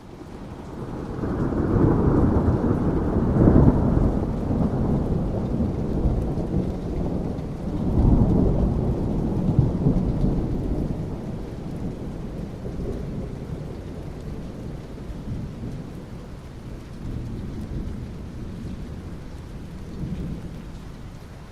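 Thunder rumbling with steady rain. A long low rumble swells in over the first couple of seconds, a second roll comes about 8 seconds in, and the thunder then slowly dies away under the rain's hiss.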